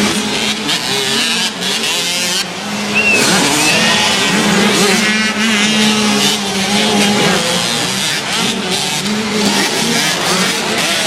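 Several motocross bikes' engines revving up and down in pitch as they race.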